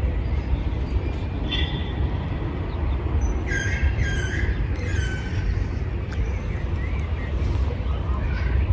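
Birds calling a few short times, mostly in the middle, over a steady low rumble.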